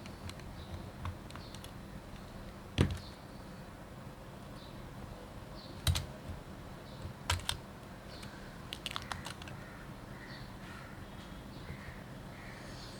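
Scattered light clicks and taps of small tools and camera parts being handled during a DSLR teardown: a sharp tap about three seconds in, another near six seconds, a quick pair after that and a small cluster of clicks near nine seconds.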